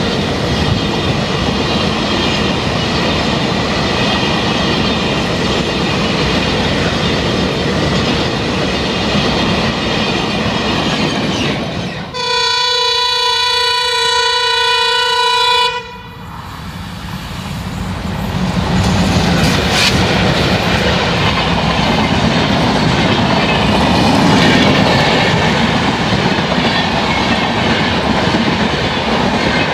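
A container freight train rolls past, its wagons clattering over the rail joints. After a cut, a diesel locomotive horn gives one long steady blast of about three and a half seconds, then twin WDG-3A diesel locomotives and their express coaches approach and rush past, the rumble and wheel noise building and staying loud.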